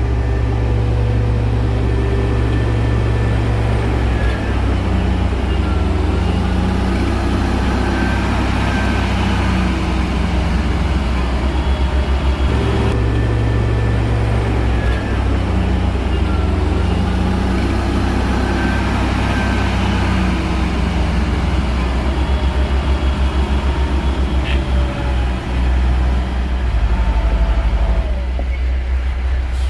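Shantui bulldozer's diesel engine working under load, its note rising and falling in repeated cycles a few seconds apart as it pushes.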